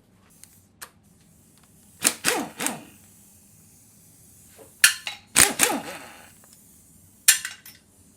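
Metal hand tools and sockets clanking and rattling against each other in three short bouts, about two, five and seven seconds in.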